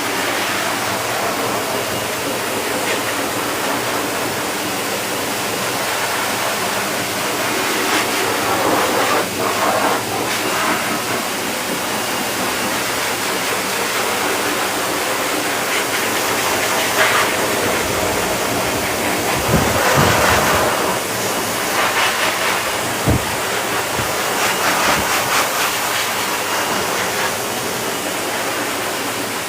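Steady, loud rushing hiss of dog-grooming equipment running, swelling louder now and then, with a couple of brief low knocks about two-thirds of the way through.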